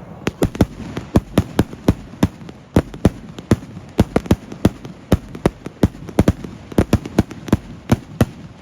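Fireworks going off in a rapid, irregular string of sharp bangs, about four to six a second, some louder than others.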